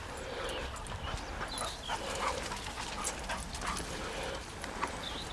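Dog whimpering and yipping in many short, high calls, one after another.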